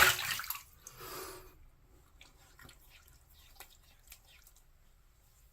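Water from a tap splashing into a sink, stopping about a second and a half in, followed by a few faint drips and small ticks.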